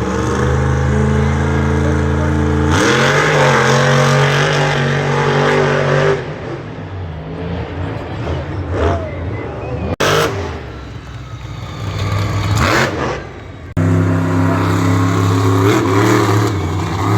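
Monster truck engines running loud and revving, the pitch climbing and dropping as the throttle is worked, with a few abrupt jumps in the sound.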